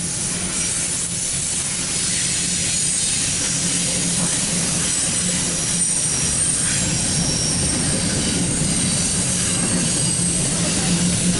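CSX intermodal freight train's double-stack container well cars rolling past: a steady rumble of steel wheels on the rails, with thin high-pitched wheel squeals coming and going.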